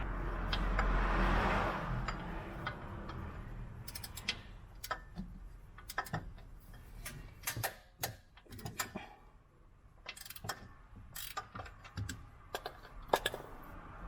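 Hand tools working on engine parts: a short stretch of hissing noise, then a string of irregular sharp metallic clicks and clinks.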